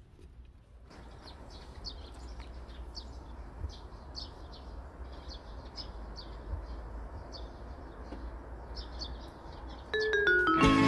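Small birds chirping over and over in short calls, over a low steady outdoor rumble. About a second before the end, louder plucked-guitar music starts with a run of falling notes.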